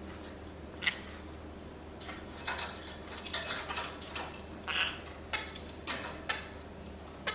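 Small pet parrots making short, sharp chirps and clicks, with a quick run of them about two to four seconds in and single ones scattered through the rest.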